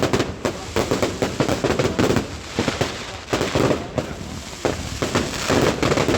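Fireworks and firecrackers going off in a dense, irregular run of overlapping bangs and crackles, with no pause.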